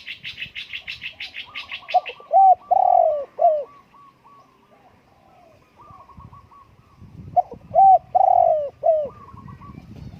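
Spotted dove cooing: two four-note phrases about five seconds apart, the loudest sound here. Other small birds chirp around it, with a fast run of high chattering notes in the first two seconds.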